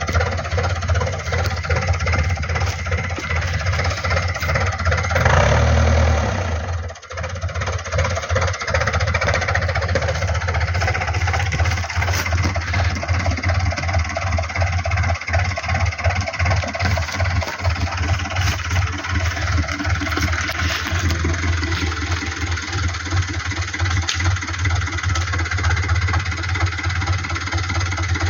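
Fiat 640 DTC tractor's four-cylinder diesel engine running, getting louder about five seconds in and dipping sharply for a moment about seven seconds in, then running steadily again.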